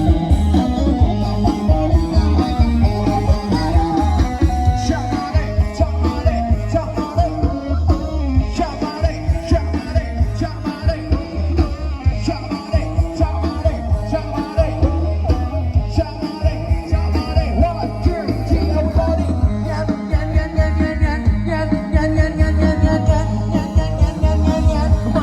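Loud live procession-band music from a Thai rot hae sound truck: a heavy pulsing bass beat under a sustained melody line.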